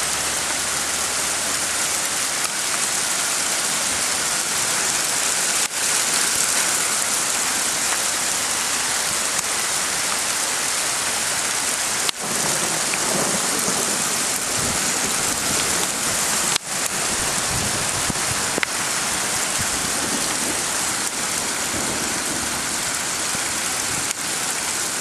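Steady hiss of heavy rain pouring down as a hailstorm turns to rain. It is broken a few times by short clicks.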